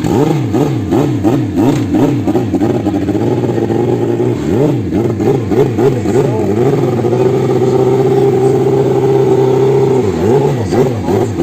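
Drag-racing motorcycle engine being revved in quick repeated throttle blips, its pitch climbing and dropping about twice a second. From about six to ten seconds in it is held at steady high revs, then the blipping resumes.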